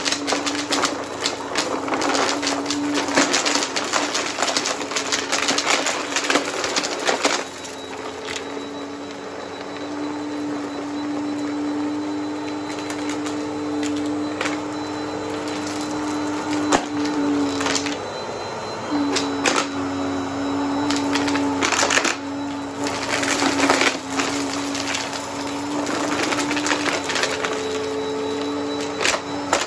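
Vacuum cleaner running with a steady motor hum while it sucks up crunchy debris, which crackles and rattles through the brushroll in clusters. The crackling is heaviest in the first several seconds and again a little past the two-thirds mark.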